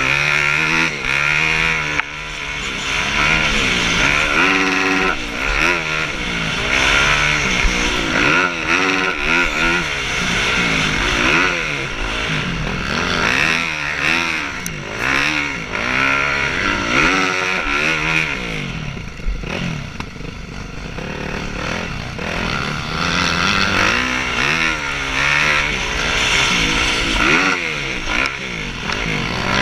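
Several motocross bikes racing around a dirt track, their engines revving up and dropping back over and over as they accelerate and brake, the sounds of different bikes overlapping.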